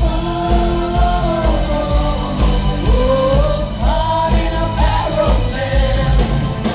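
Live rock band playing with a lead vocalist singing a held, gliding melody over a steady, heavy-bass beat.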